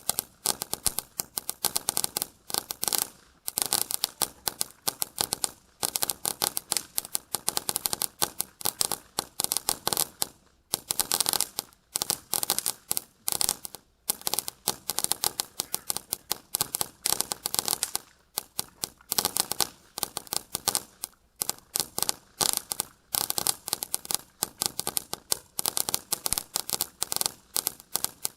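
Winda "Noisy Boys" firework going off in rapid, dense crackling pops. The pops come in clusters separated by brief pauses, over and over, with no deep booms.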